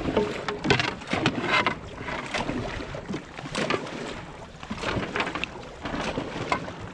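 Dragon boat crew paddling hard: paddles dig in and pull through the water in a run of splashes roughly once a second, over steady water noise.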